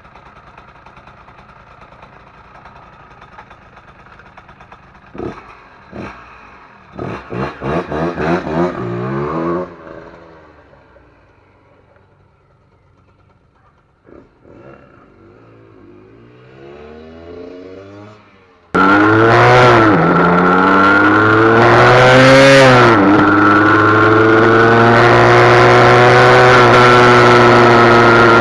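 Husqvarna SM 125 two-stroke single-cylinder engine being revved in several short blips, the pitch rising and falling each time. About two-thirds of the way in it turns suddenly much louder, running hard at high revs with the pitch shifting, as on a ride under load.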